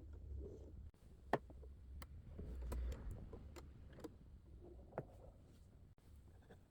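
Light, scattered clicks and taps of hands working a sewing machine's plastic parts, over a low rumble.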